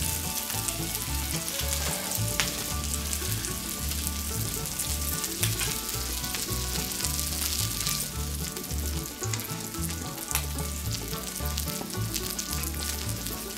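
Bacon fat sizzling steadily on a hot steel fire plate, with scattered small pops, as burger buns toast face-down in it and bacon-wrapped fish sticks fry alongside.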